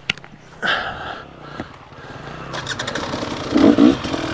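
Off-road dirt bike engine, low and quiet with scattered clicks at first, then picking up about two and a half seconds in and revving louder near the end before settling into a steady run.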